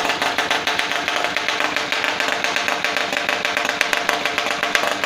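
Home-built 700 cc two-stroke opposed engine running steadily, a rapid, even stream of firing pulses.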